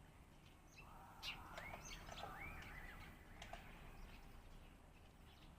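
A sparrow chirping: a short run of faint, arching chirps from about a second in to about three and a half seconds in.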